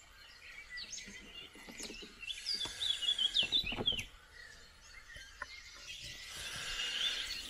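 Morning birdsong: several birds chirping and trilling, with a busy run of quick chirps a couple of seconds in, over faint outdoor background noise.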